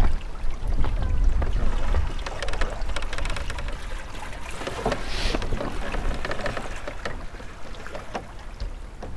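Water splashing and lapping against the hull of a small sailing dinghy under way, with many small crackles and a brief hiss about halfway through. Wind buffets the microphone, strongest in the first couple of seconds and fading toward the end.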